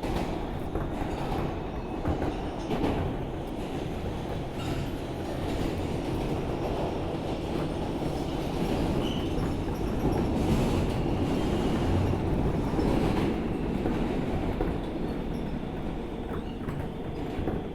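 R160B Alstom subway train running along the track, a steady rumble broken by sharp clicks of the wheels over rail joints.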